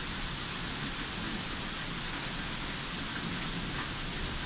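Heavy thunderstorm rain falling steadily in a dense, even hiss, pattering on surfaces close by.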